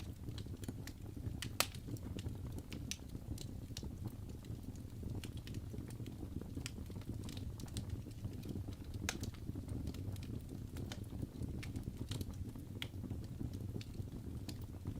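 Wood fire burning in a fireplace: a steady low rumble of flames with irregular sharp crackles and pops, the loudest pop about one and a half seconds in.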